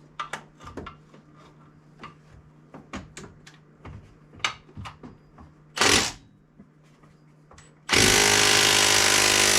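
Impact wrench hammering on a stubborn bolt, trying to break it loose: a short burst about six seconds in, then a long steady run starting near the end. Before that, light clinks of tools and metal.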